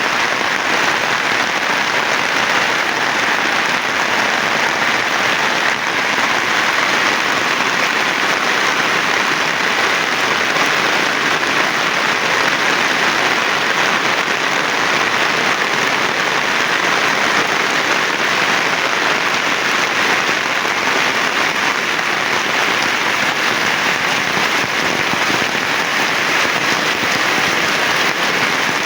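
Heavy rain falling, a dense, even hiss of drops that holds steady throughout.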